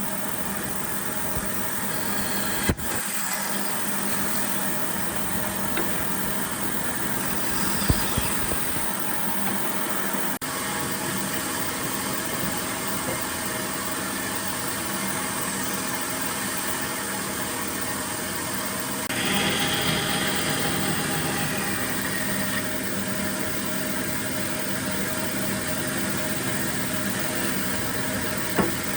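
A machine motor running with a steady hum, with a few sharp knocks and a brief louder stretch about two-thirds of the way through.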